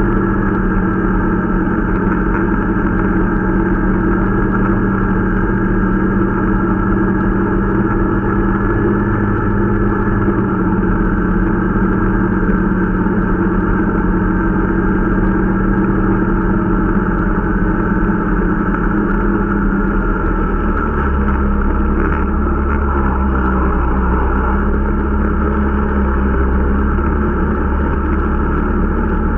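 Irbis Dingo T125 snowmobile's 125 cc engine running steadily while being ridden during its break-in. About two-thirds of the way through, the engine note shifts and its low hum moves lower.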